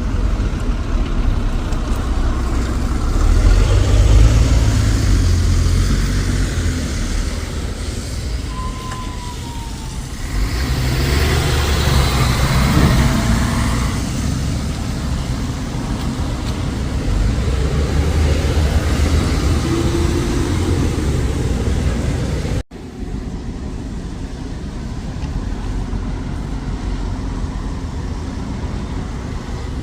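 Road traffic running close by with a heavy low rumble. One vehicle passes loudly about twelve seconds in. The sound breaks off abruptly for an instant about two-thirds of the way through, then the traffic noise carries on.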